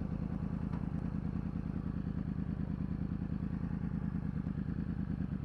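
Yamaha R1's inline-four engine running steadily at low revs, with an even, fast low pulse and no revving.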